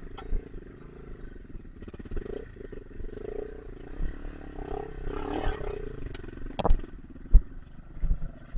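Dirt bike engine running and revving under load, a rough pulsing drone that swells in the middle, with a few sharp knocks near the end.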